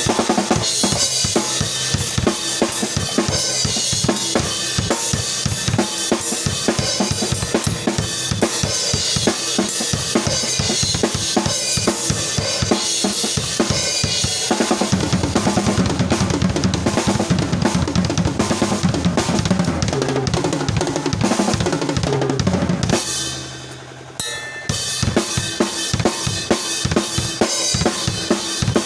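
Isolated drum kit track playing a steady groove of kick, snare and cymbals. About halfway through the playing grows fuller, then drops away briefly near the end before the beat comes back in.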